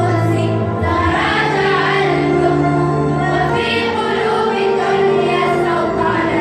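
A school children's choir singing an Arabic nasheed over instrumental accompaniment, with held bass notes that change twice.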